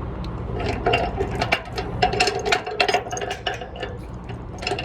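Steel tie-down chain clinking and rattling: a quick, uneven run of sharp metal clanks, some ringing briefly, over a steady low hum.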